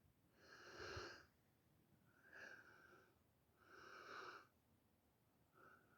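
A man's breathing, faint and close to the microphone: three breaths about a second and a half apart.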